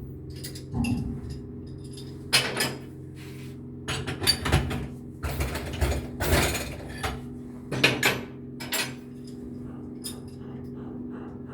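Marine diesel fuel injector on a hand-pump test rig, spraying in several short bursts over a steady machinery hum.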